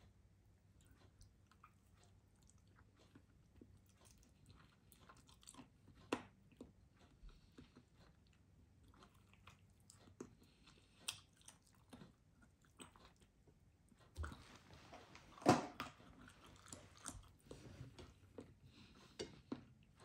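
A person chewing mouthfuls of baked chicken and rice: faint wet clicks and smacks, with one louder crunchy bite about three quarters of the way through.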